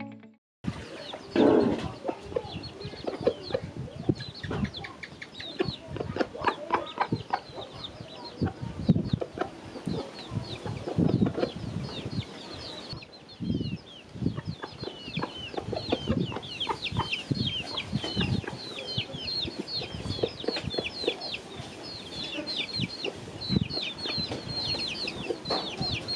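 Chickens clucking, with many short, high-pitched chirps and scattered knocks.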